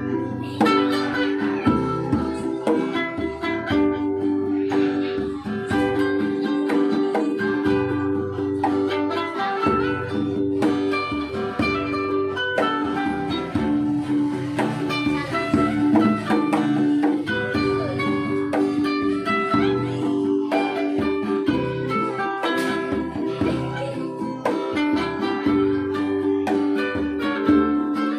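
Acoustic string-band music: guitar and ukulele strummed in a steady rhythm over sustained low notes, with no singing.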